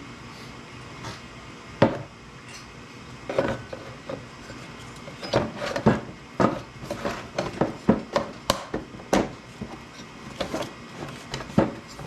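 Irregular sharp clicks and knocks of hand tools and hard parts being handled, with a single knock early, a dense run of them in the middle and one more near the end.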